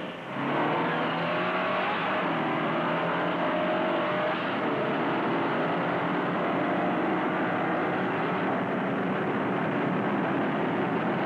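The V8 engines of a 1963 Chevrolet Impala and a 1963 Ford Galaxie 500 accelerating hard side by side in a drag race, coming in suddenly just after the start and rising in pitch over the first few seconds, then running on steadily at full throttle.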